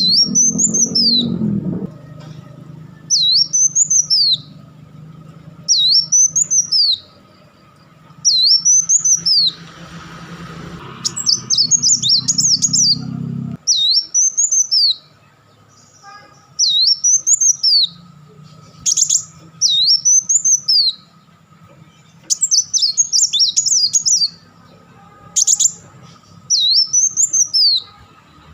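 Kolibri wulung sunbird calling: a sharp, high note that rises and falls, repeated about every two and a half seconds, with short bursts of rapid chattering in between.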